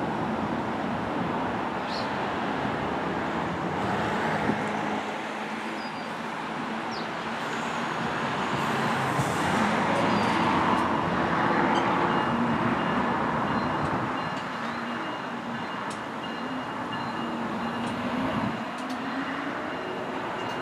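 Electric train running past on the line, a continuous rumble that builds to a peak about halfway through and eases off, with a faint steady high whine in the second half.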